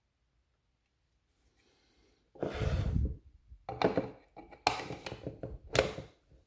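A run of short knocks and clicks, starting about two seconds in after a near-silent stretch.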